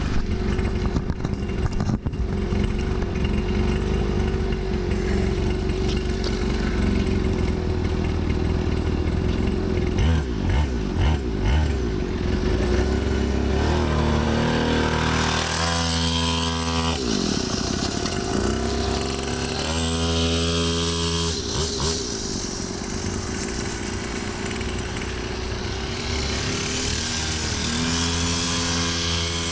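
Small 49cc two-stroke pit bike engine running, then riding past at speed about halfway through, its engine note swinging sharply in pitch as it goes by, before settling back to a steady drone.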